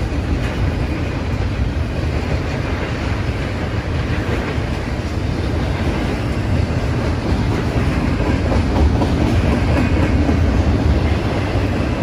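Double-stack intermodal container train passing: loaded well cars roll by on steel wheels in a continuous rumble, growing a little louder past the middle.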